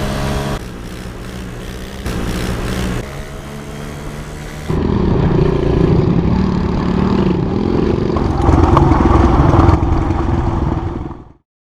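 Pit bike's 110 cc single-cylinder four-stroke engine running, heard in short pieces with sudden jumps in level, then louder and revving harder from about five seconds in before cutting off abruptly near the end.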